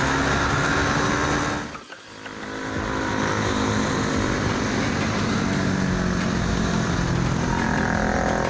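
Motorcycle engine running while riding, with wind rush. The sound drops away briefly about two seconds in, then comes back steady.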